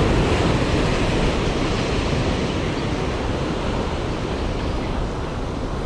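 Steady rush of ocean surf washing against a tetrapod breakwater, with wind buffeting the microphone.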